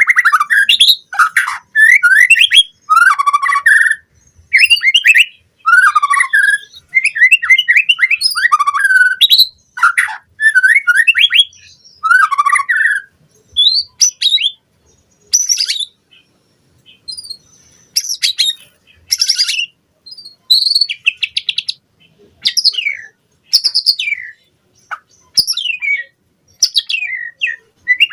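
White-rumped shama singing a loud, varied song of quick whistled and chattering phrases separated by short pauses. The phrases come thick and fast at first, then turn sparser and higher-pitched in the second half.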